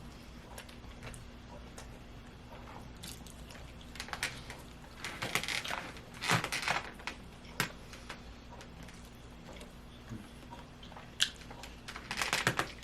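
People chewing and eating, with short wet mouth sounds and light clicks in scattered bursts, busiest around the middle and again near the end.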